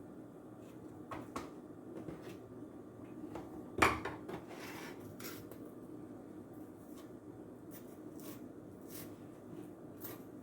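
Dishes and cutlery clinking and knocking in scattered light clicks, with one much louder clatter about four seconds in.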